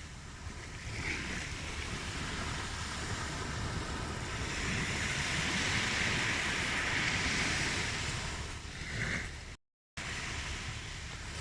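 Ocean surf washing ashore: a wave swells to its loudest about midway and recedes. Near the end the sound drops out to silence for a moment, then comes back.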